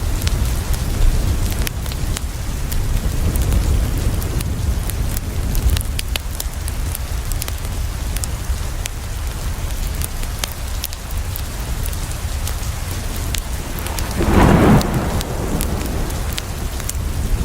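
Steady rain with a low rumble underneath and a scatter of small sharp ticks. About fourteen seconds in, a loud clap of thunder lasts about a second.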